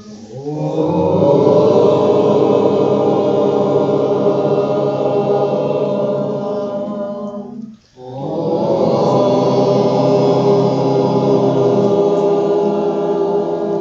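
A group of people chanting a long drawn-out "Om" in unison, twice, each held about seven seconds, with a short pause for breath about eight seconds in.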